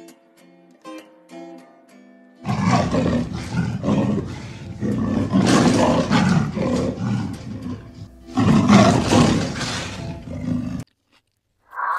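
A few plucked guitar notes, then a large animal giving three long, loud, rough roaring calls. The last call cuts off suddenly, about a second before the end.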